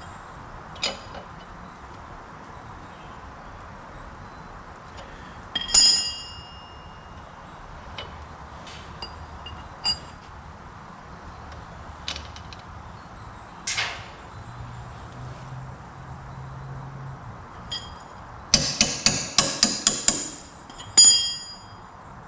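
Hammer striking steel parts of a mower's front caster during reassembly. Light metal clinks, a ringing strike about six seconds in, and a quick run of about eight blows near the end followed by one more ringing strike.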